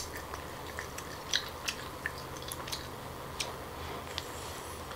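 Mouth sounds of eating steamed abalone: scattered soft, wet chewing clicks and smacks over a faint steady low hum.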